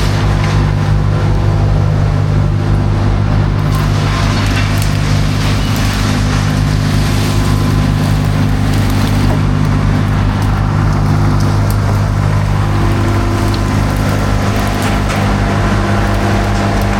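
An engine running steadily at a constant speed, its note shifting a little about three-quarters of the way through.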